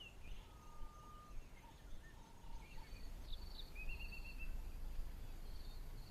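Wild birds calling: scattered short whistles and chirps, with a brief trill about four seconds in, over a low background rumble. A repeated high note joins about halfway.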